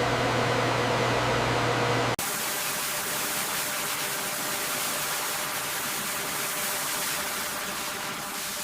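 A steady machine hum with a low drone cuts off suddenly about two seconds in and gives way to a steady hiss.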